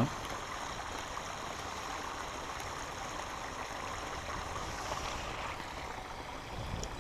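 Small waterfall in a shallow stormwater-fed creek, water splashing and rushing steadily.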